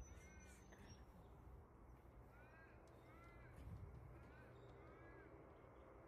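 A bird calling faintly: short rising-and-falling calls, mostly in quick pairs, repeated several times.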